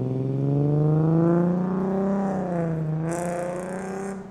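Infiniti G sedan's V6 engine pulling away under acceleration. Its pitch climbs over the first two seconds, dips about three seconds in, then steadies and rises again as the car moves off.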